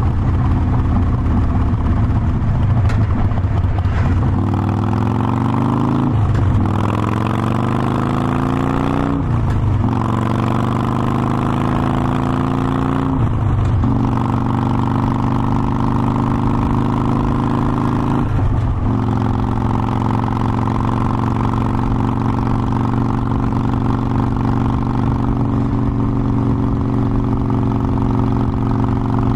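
Harley-Davidson Forty-Eight Sportster's air-cooled V-twin accelerating up through the gears. The engine note climbs, drops briefly at each of about four upshifts, and then settles into a steady cruise for the last ten seconds.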